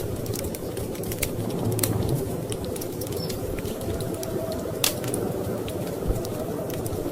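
Wood fire crackling with scattered sharp pops over a steady low rumble of storm wind; one louder pop about five seconds in.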